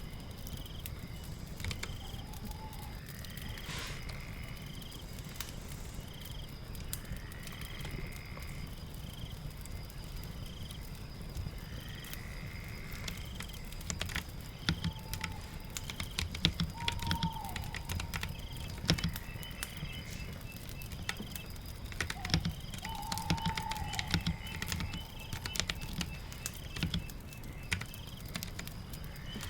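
Birds call over a rain-and-fireplace ambience, with scattered sharp clicks of keyboard typing and fire crackle. One bird repeats a short high chirp about once a second. Longer falling whistles come every few seconds, and a lower whistled call comes twice in the second half.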